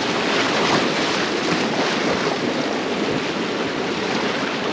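Steady rush of river water around a raft, with wind noise on the microphone.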